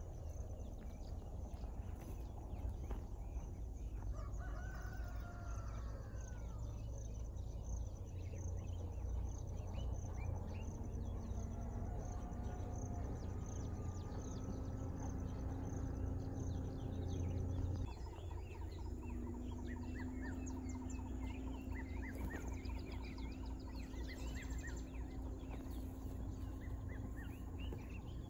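Birds calling, with many short chirps and a few longer gliding calls, over a low rumble. A steady low hum joins about a third of the way in, and the rumble eases about two-thirds of the way through.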